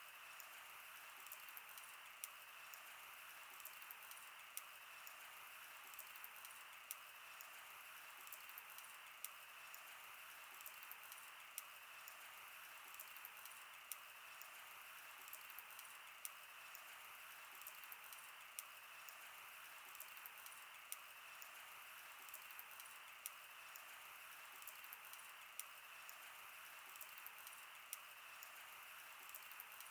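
A wood fire burning: a faint steady hiss with irregular sharp crackles and pops, and a louder snap every second or two.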